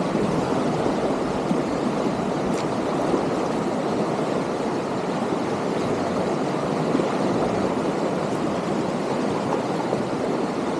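Whitewater rapids rushing steadily around the kayak: a dense, even roar of churning water.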